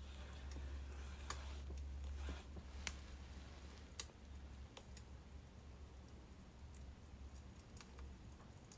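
Burning birch logs crackling softly: sparse, irregular sharp pops and ticks over a faint hiss, with a low steady hum underneath that is strongest in the first couple of seconds.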